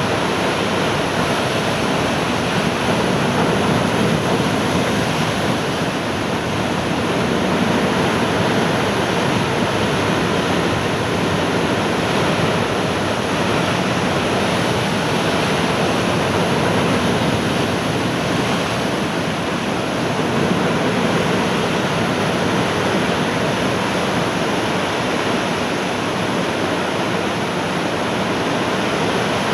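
Heavy surf from a typhoon swell breaking and washing along the shore. It makes a continuous loud rush that swells and eases a little every few seconds.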